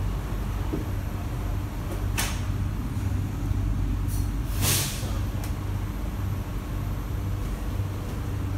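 A C151B metro train standing at a station with its doors open: a steady low hum from the carriage's equipment, broken twice by a short hiss, the second one louder.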